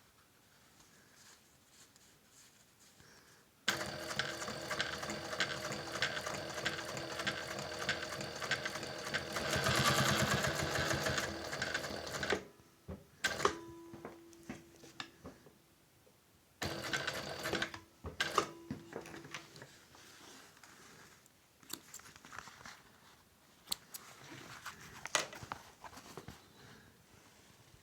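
Toyota LZ2-D530 industrial zigzag sewing machine stitching: one continuous run of about eight seconds starting some four seconds in, louder for a moment near its end. Then a few short bursts of stitching and scattered clicks.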